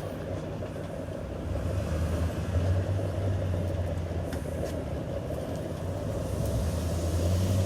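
A motor vehicle's engine running close by, a steady low hum that grows louder about a second and a half in.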